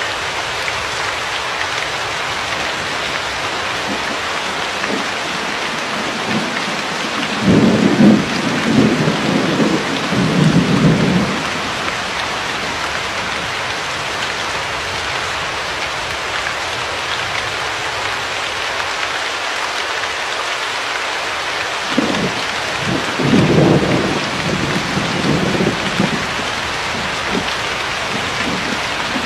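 Steady, even rain with two rolls of thunder, each rumbling for a few seconds, about a quarter of the way in and again about three quarters of the way in.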